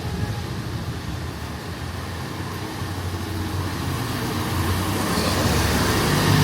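Street traffic: a motor vehicle's engine running with a low hum, getting louder over the last two seconds or so as it draws near.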